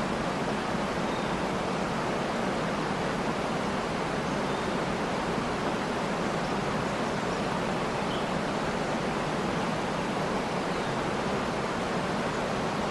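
Waterfall rushing steadily, an even hiss of falling water, with a few faint high bird chirps.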